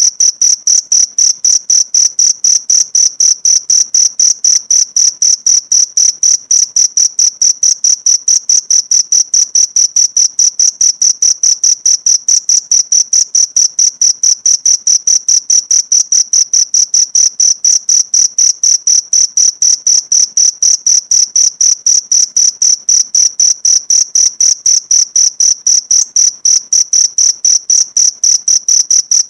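Cricket chirping: a steady, high-pitched, even chirp repeated about four times a second, starting abruptly after silence.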